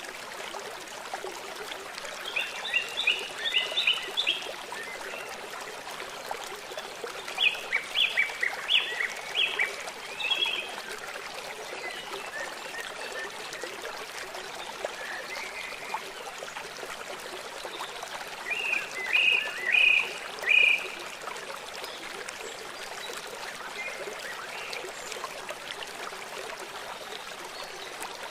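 Steady rush of running water, with three bursts of rapid repeated high calls from small animals, about 2 s, 7.5 s and 18.5 s in.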